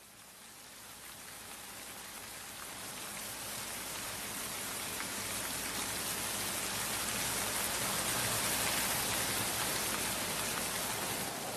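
Steady rain falling, a dense hiss that fades in and grows louder over roughly the first eight seconds, then holds.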